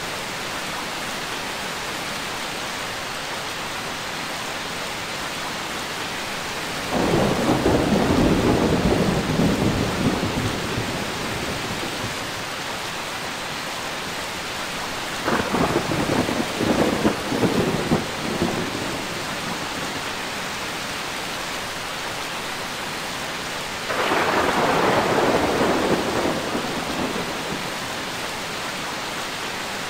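Steady rain with three claps of thunder, each starting suddenly and rumbling away over a few seconds: one about a quarter of the way in, a crackling one around the middle, and one near the end.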